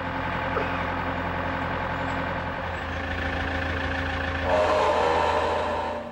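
An engine running steadily with a low hum. It gets louder about four and a half seconds in, then drops off suddenly near the end.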